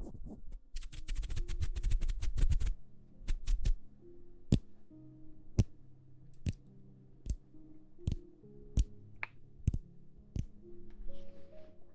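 Soft background music with held notes, over which close-up tapping sounds: a fast run of taps with deep thuds in the first few seconds, then single sharp clicks about once a second.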